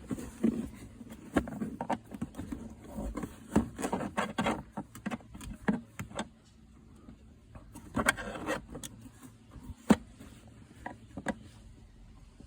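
Plastic centre console trim of a 2005 Mitsubishi Montero being pried loose from its retaining clips with a flat screwdriver: irregular clicks, knocks and scraping, with one sharper click late on.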